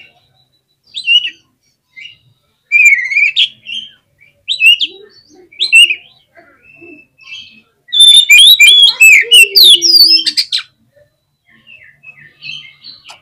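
Oriental magpie-robin (kacer) singing: a string of short, clear whistled phrases, then a loud, rapid run of varied notes for about two and a half seconds, fading to softer notes near the end.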